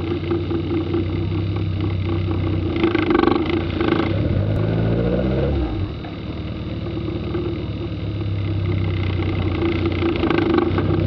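Kit car engine idling, with a rise in revs a little over four seconds in that drops away sharply near six seconds, then settling back to a steady idle as the car starts to move off.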